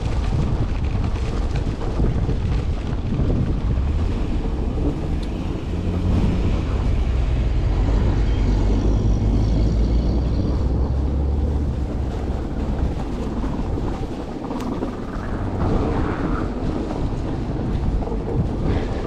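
Wind buffeting the microphone in a snowstorm during an electric-vehicle ride, a steady low rumble that dips a little and swells again near the end.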